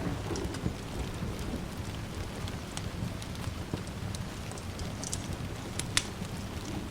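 Steady rain with a low, steady rumble beneath it, and a few sharp pops of a crackling wood fire, the loudest about six seconds in.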